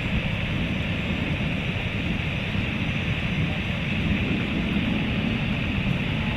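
Steady rumble and hiss of aircraft engines running at an airport, with no distinct events.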